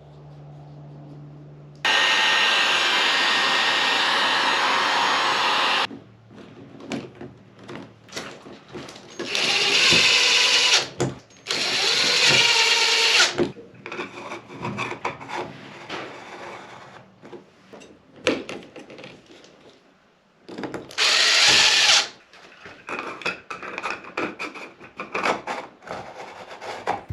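Power drill running in four bursts, the first about four seconds long and the others one to two seconds, with knocks and clatter between them.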